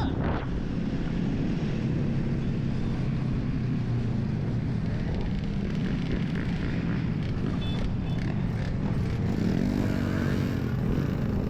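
Steady low rumble of wind and road noise while riding an electric dirt bike, with vehicle traffic around it.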